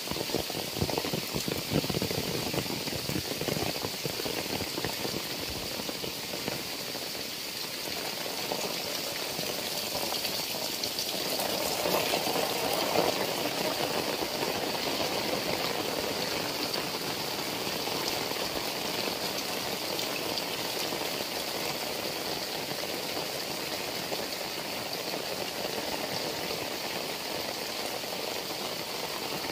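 Heavy rain falling steadily, a dense even hiss that swells louder and fuller around twelve seconds in.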